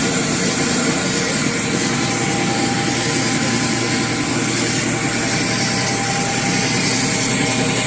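Abrasive water jet cutter running: a loud, steady hiss of the high-pressure jet cutting metal, with a faint steady machine hum underneath.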